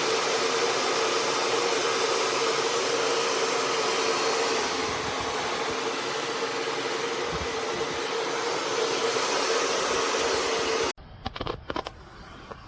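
Hair dryer blowing warm air into a soft bonnet hood attachment: a steady airy rush with a steady hum. About eleven seconds in it cuts off abruptly, leaving a few clicks over a much quieter background hiss.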